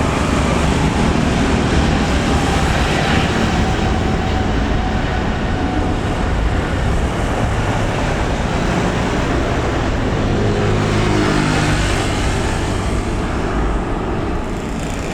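Jet airliner engines, a loud, steady rush of noise that eases slightly near the end.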